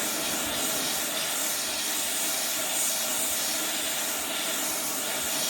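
ATTEN ST-862D hot air rework gun blowing a steady hiss of hot air at about 300 °C onto a circuit board to melt solder.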